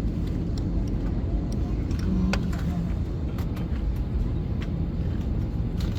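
Steady low rumble of an Airbus A320 cabin as the airliner taxis before takeoff, engines and air system running, with a few faint clicks.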